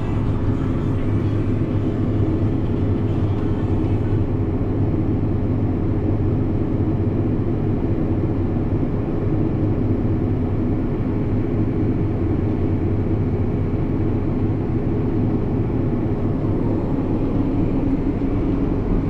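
Farm tractor's diesel engine running steadily under load, a constant drone, while the grain cart unloads into a semi.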